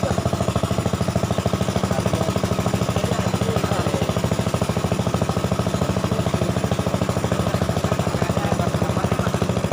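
Small boat's engine running steadily with a fast, even beat.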